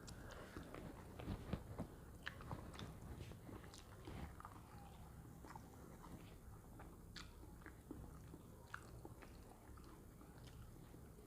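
A person chewing a banana-leaf meal, with many small, irregular clicks and crunches.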